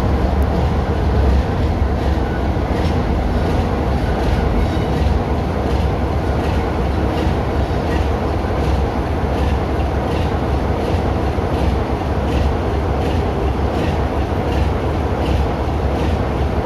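Diesel train running on the rails: a steady heavy low rumble with regular wheel clicks over the rail joints, about three every two seconds.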